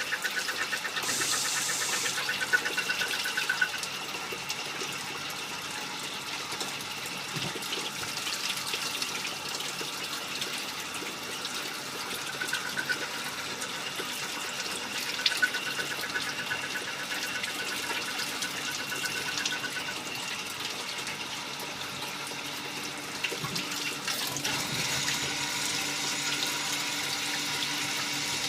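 Automatic lathe machining small parts, with cutting coolant hissing and splashing over the work. A high pulsing whine from the cut comes and goes, with a few light clicks, and the hiss grows brighter near the end.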